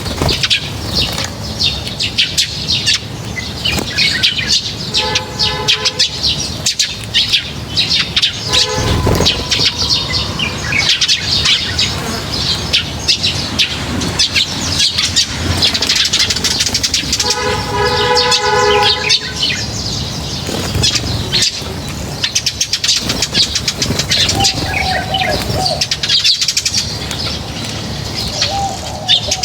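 A flock of birds at feed, with dense chirping and the flapping of wings as birds come and go, keeping up a continuous busy chatter.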